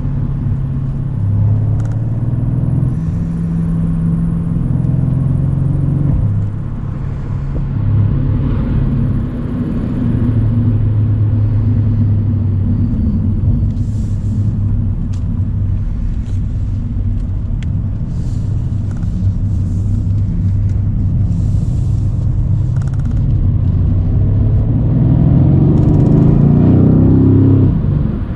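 Mercedes-AMG C63 twin-turbo V8 running under way at a steady cruise, its note stepping up and down a few times. Near the end it revs up steadily for a few seconds under acceleration.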